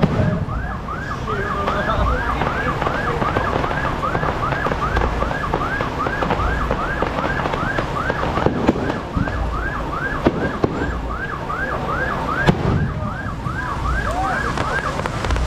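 Electronic siren on a fast yelp, its pitch sweeping up and down steadily about twice a second, with a few low thumps underneath.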